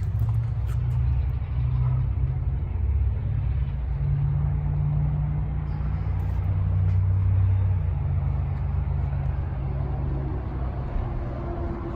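Polaris Sportsman 850 ATV's twin-cylinder engine running at low speed, a steady low note whose pitch rises and falls slightly.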